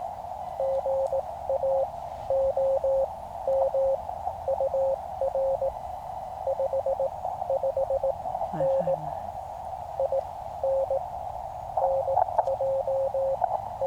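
Morse code (CW) coming through a QCX mini QRP transceiver: a single steady tone keyed on and off in dots and dashes over the receiver's band hiss. It is the other station sending its exchange to the activators.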